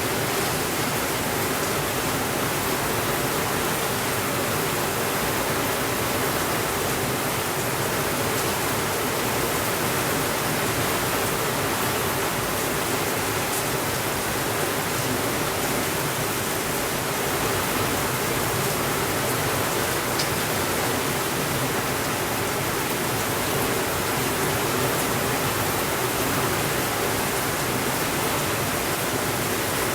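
Steady rainfall, an even unbroken hiss, with a couple of faint ticks.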